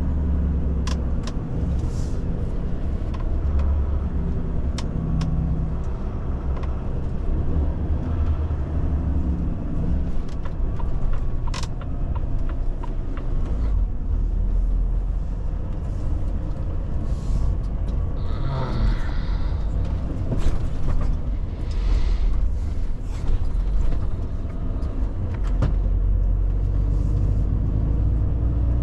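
Volvo FH truck driving at road speed: a steady low rumble of engine and tyres, with a few sharp clicks and knocks.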